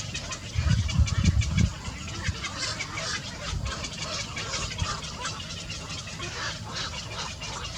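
Small birds chirping in many short, rapid high calls. A burst of low rumbling thumps about a second in.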